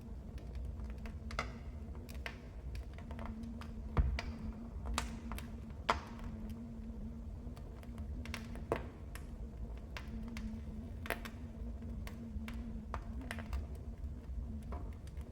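Fireplace fire crackling: irregular sharp pops and snaps over a low, steady rumble of the flames, the loudest pop about four seconds in.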